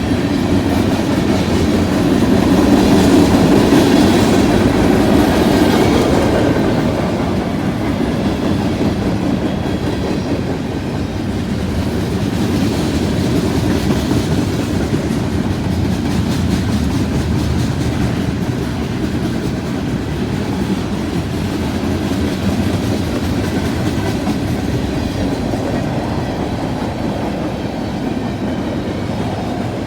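Freight train rolling past, its cars' wheels clicking steadily over the rail joints, with a steady rumble that swells a little a few seconds in.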